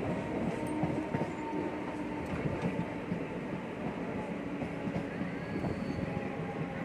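Passenger train running along the track, heard from on board: a steady rumble of wheels on rails with occasional light clicks.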